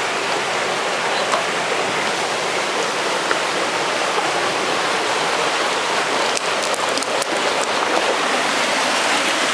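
Creek water rushing over rocks at a small waterfall: a steady, fairly loud rushing noise. A few light clicks come between about six and seven and a half seconds in.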